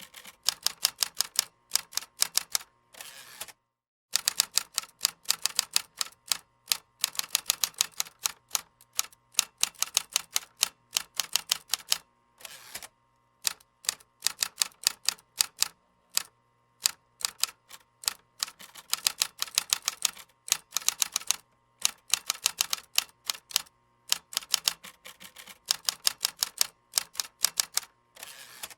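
Computer keyboard typing: quick runs of sharp key clicks in bursts of a few seconds, with short pauses between them.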